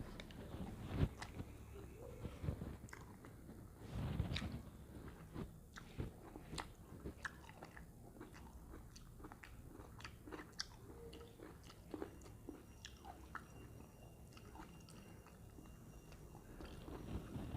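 Someone eating: chewing with soft crunches and many scattered small clicks, with a slightly louder soft thud about four seconds in.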